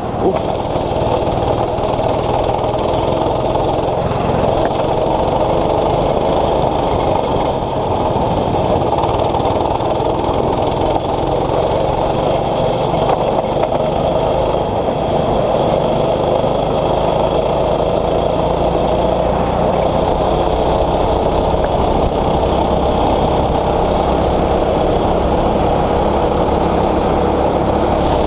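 6.5 hp single-cylinder four-stroke kart engine running steadily, its note drifting slightly up and down.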